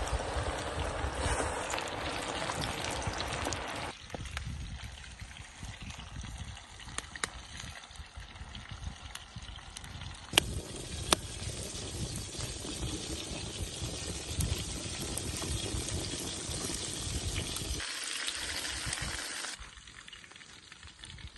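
Chicken wings frying in bubbling oil over a campfire, a steady bubbling hiss that changes abruptly several times. Two sharp clicks come about ten and eleven seconds in.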